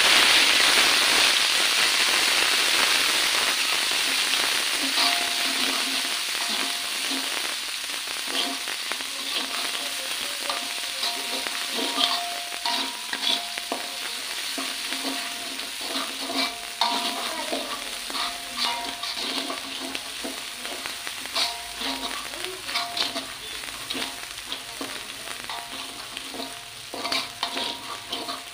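Spice paste of shallot, garlic, ginger and chili sizzling in hot oil in a wok, loudest at the start and slowly dying down. A metal spatula stirs it, scraping and knocking against the pan many times.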